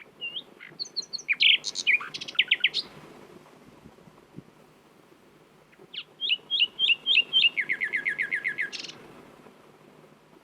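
Nightingale singing two phrases of about three seconds each, separated by a pause of about three seconds. Each phrase is a rapid run of repeated whistled notes and trills.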